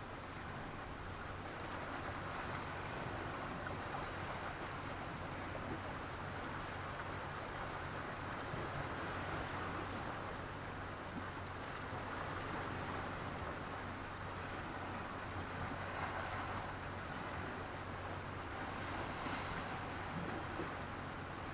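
Sea waves washing onto a beach of sand and black pebbles, a steady wash that swells a little every few seconds as each wave comes in.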